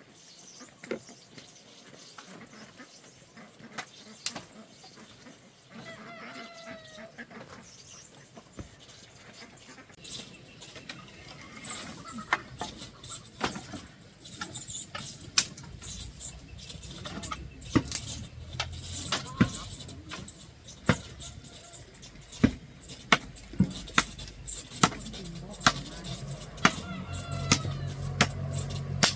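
Chickens calling now and then, with a series of sharp knocks that come more often in the second half, about one a second near the end. A low steady hum joins about halfway through.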